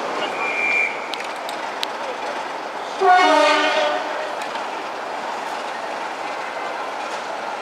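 Diesel train running slowly, with steady wheel and engine noise. A brief high tone comes near the start, and a diesel train horn sounds once for about a second, about three seconds in.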